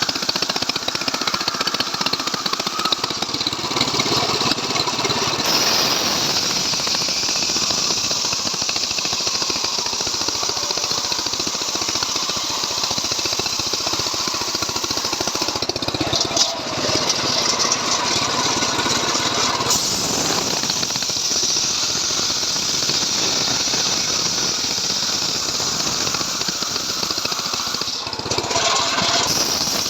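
Stihl MS 381 two-stroke chainsaw engine running hard on a home-built srekel saw rig, ripping lengthwise through a log. Its level dips briefly twice, about 16 seconds in and again near the end.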